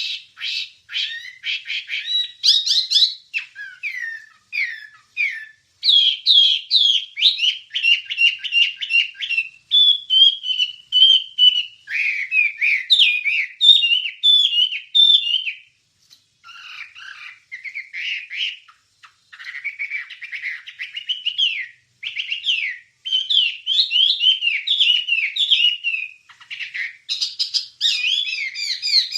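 Wambie songbird singing a long, fast run of varied chirps, trills and whistled notes, with a short pause about halfway through.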